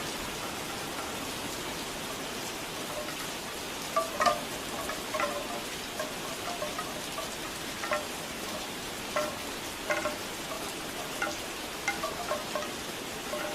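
Bamboo wind chimes knocking in irregular clusters over steady rain. The first few seconds are rain alone, and the chimes start about four seconds in.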